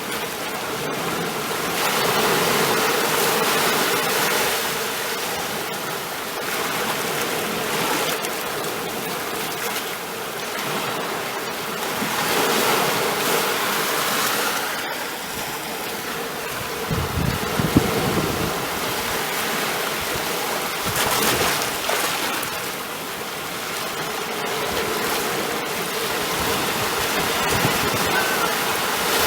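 Ocean waves washing ashore, the surf swelling and easing every few seconds, with a heavier wave breaking a little past the middle.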